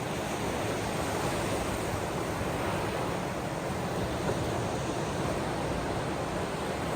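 Ocean waves washing on the shore, heard as a steady, even surf noise with no distinct breaks.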